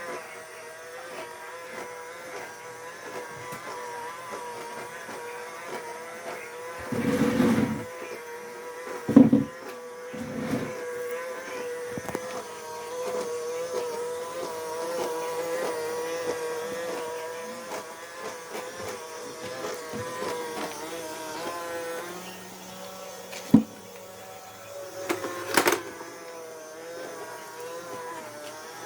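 Small robot vacuum running on a hard floor, its motor giving a steady, slightly wavering whine, with a few knocks now and then.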